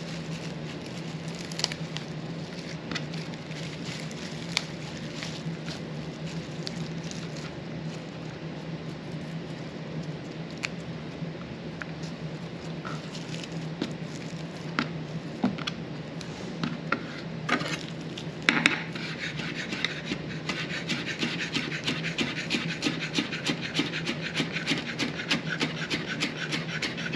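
Chef's knife chopping fresh parsley on a cutting board: scattered cuts and scraping at first, then about two-thirds of the way in a fast, even run of chopping strokes. A steady low hum runs underneath.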